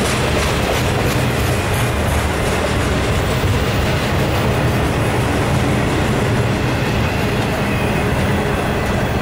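Double-stack intermodal well cars of a freight train rolling past: a steady rumble of steel wheels on the rails.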